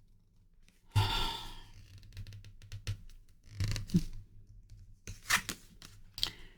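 Tarot cards handled on a table: a burst of rustling about a second in, then scattered scrapes and sharp clicks.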